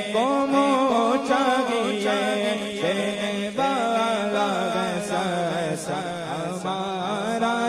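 A voice singing a naat, an Islamic devotional hymn, in a chanting style with long held notes that glide and curl in pitch.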